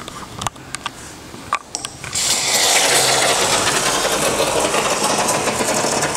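A few clicks, then about two seconds in a urethane spray-foam gun starts dispensing foam with a loud, sputtering hiss that goes on for about four seconds. The can is nearly empty.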